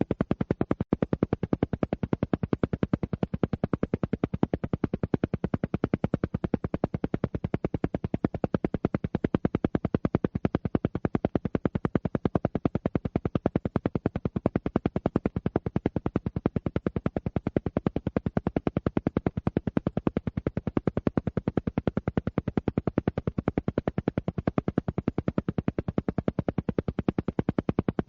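Alpha-wave brainwave-entrainment audio: a steady train of rapid, evenly spaced pulses that repeat without change.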